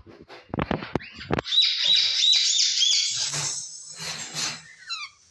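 Parrots calling: a quick run of repeated chirps at about four or five a second, then harsher rasping squawks and a few falling whistled notes. A few low thumps come first.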